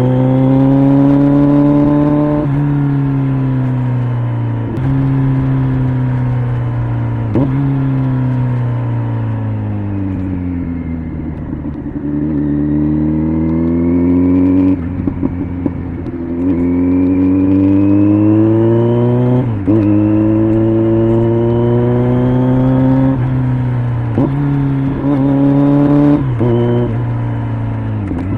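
Kawasaki Z900's inline-four engine through an LCI aftermarket exhaust, heard from the bike while riding: it revs up through the gears with sharp drops in pitch at each upshift. It eases off to a low run in the middle, then pulls hard again, rising with more quick shifts near the end.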